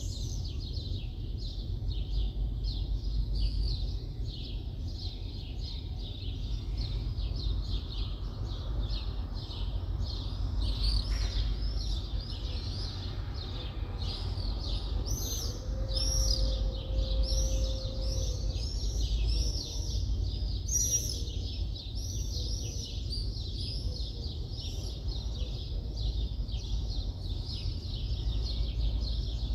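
Many birds chirping rapidly and continuously over a steady low background rumble. A faint held tone sounds for a few seconds around the middle.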